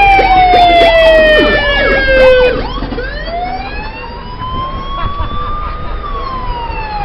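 Fire truck sirens wailing. For the first two and a half seconds, a loud siren tone falls slowly in pitch while a second siren warbles quickly alongside it. A siren then winds up slowly for about three seconds and falls away again.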